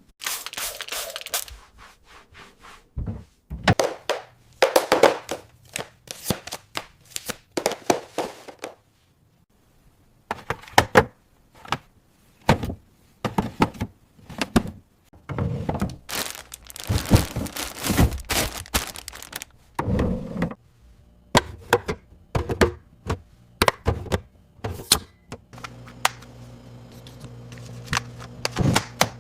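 Fridge-restocking sounds: an irregular string of thunks, taps and clatters as food containers and packaging are set down and arranged, with some crinkling of wrappers.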